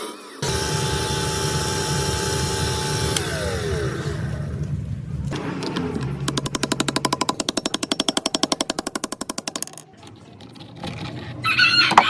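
A power tool runs steadily, then winds down in pitch after about three seconds. It is followed by a few seconds of rapid, evenly spaced hammering, like an impact tool working a fastener. A rooster crows near the end.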